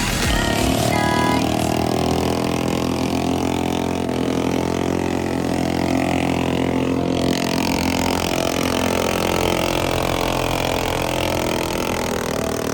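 Motorcycle engine held at steady high revs, its pitch wavering slightly and gliding up and down around the middle.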